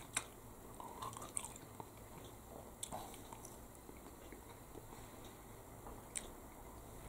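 Faint chewing of a mouthful of steak bridie, a flaky-pastry pie stuffed with shredded steak, with a few soft clicks from the mouth and pastry.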